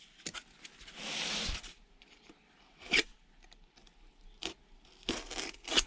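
Hands working at a screwed-shut wooden box: a short rustle about a second in, a sharp click near the middle, and scattered light knocks and ticks near the end.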